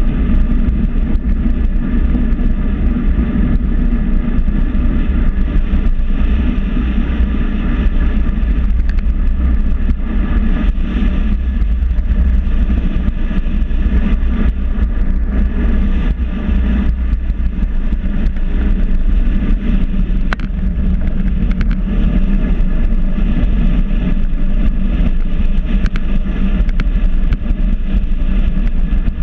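Steady, loud rumble of riding along a road: wind and road noise with a constant low drone and no let-up.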